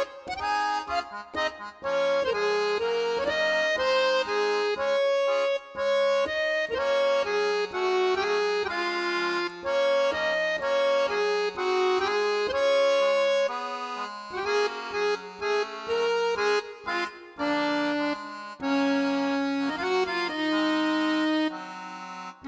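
Background music: a cheerful accordion-led tune, a melody moving note to note over short repeated chords.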